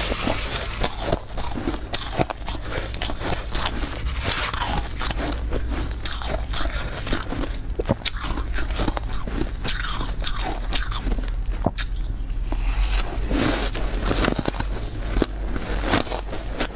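Close-miked biting and crunching of freezer frost, a dense crackling crunch as mouthfuls of soft ice are chewed, with sharp snaps throughout.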